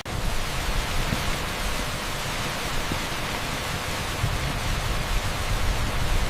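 Heavy downpour on an asphalt street blended with pink noise: a steady, dense hiss with a low rumble underneath. It cuts out for a split second right at the start.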